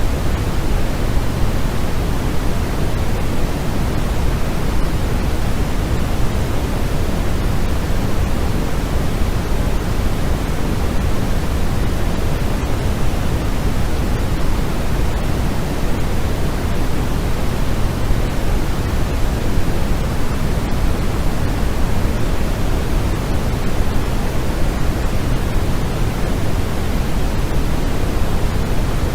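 Steady synthetic noise of the pink kind, a constant even hiss weighted toward the low end, unchanging throughout, played as a sleep and relaxation sound.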